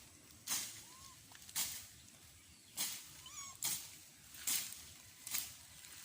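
Repeated short swishing or cutting strokes, about one a second, with a few faint high chirps between them.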